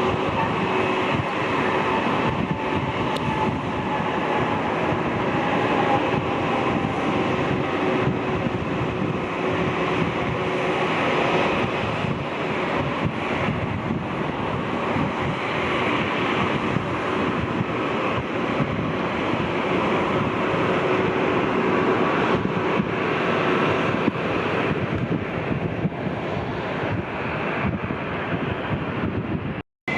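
Jet airliner engines running, a steady rush of noise with faint whining tones over it.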